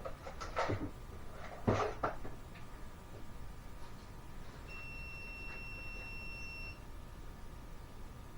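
Two short knocks of handling in the first two seconds, then a steady high electronic beep lasting about two seconds.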